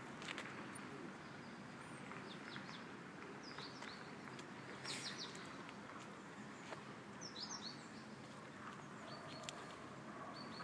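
Small birds chirping in short clusters of two or three quick notes, scattered every second or two over a steady low outdoor background hum.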